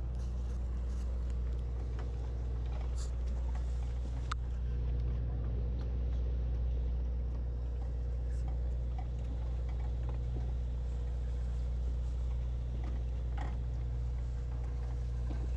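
Sportfishing boat's engine running with a steady low drone, with a few faint clicks over it.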